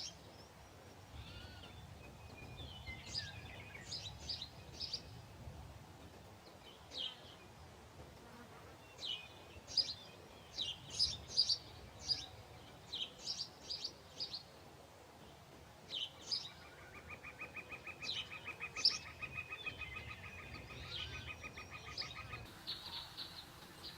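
Small birds chirping in scattered short, high calls. About two-thirds of the way in, a fast, even, buzzing trill joins them and runs for about six seconds before stopping.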